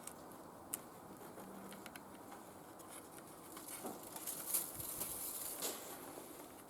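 Light clicks and taps of small hard parts being handled over a faint steady hiss, with a sharp click under a second in and a busier run of clicks and knocks about four to six seconds in.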